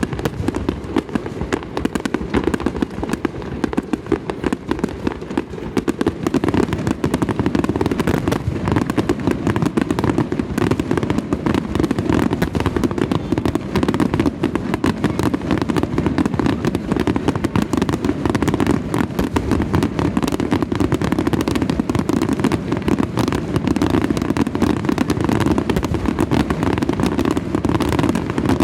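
A fireworks barrage (wide star mine): a continuous rapid stream of shells bursting, the bangs overlapping without a break.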